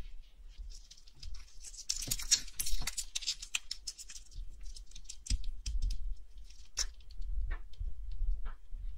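Small tools handling watch parts at a workbench: a short spell of scratchy rubbing, then scattered light clicks and taps.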